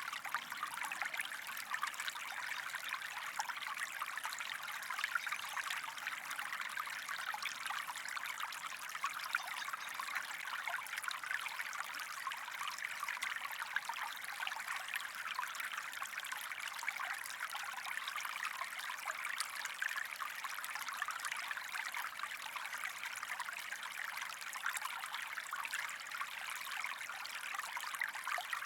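Water of a small creek running, a steady even rush with no breaks.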